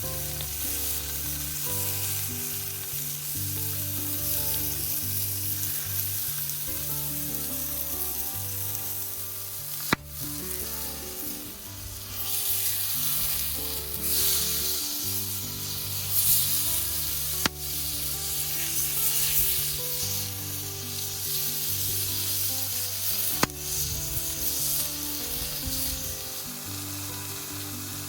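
Food sizzling as it fries in a hot pan, the sizzle swelling louder through the middle, with three sharp clicks along the way. Background music with a steady bass line plays underneath.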